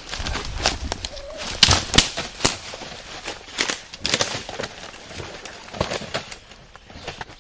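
Irregular rustling and knocks, feathers and dry leaves, as the freshly shot wild turkey gobbler is handled on the ground.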